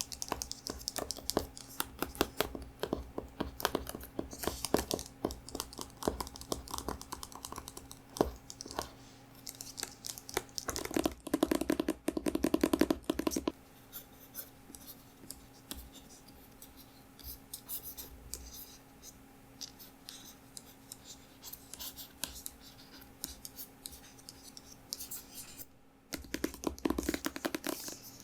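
Tapping and scratching on a book, close to the microphone: quick, crisp taps that come thick at first, a louder rough scratching stretch around the middle, then sparser taps, with a faint steady hum underneath.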